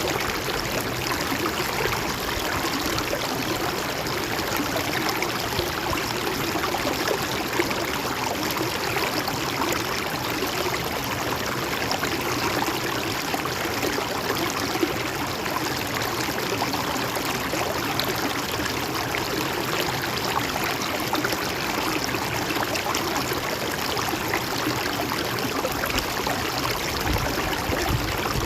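Gently flowing river: a steady, even rush of water.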